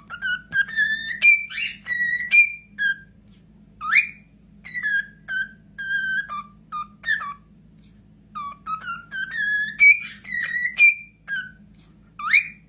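A pet parrot whistling a short tune of clear notes with quick upward slides, starting the phrase over again about eight seconds in.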